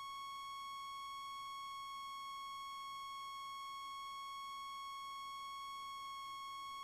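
A steady electronic tone at about 1 kHz with a ladder of higher overtones, held at one unchanging pitch and level. No engine or cockpit noise is heard under it.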